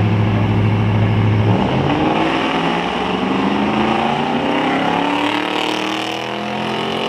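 A car engine holding a steady pitch, then, about a second and a half in, accelerating, its pitch rising steadily for several seconds.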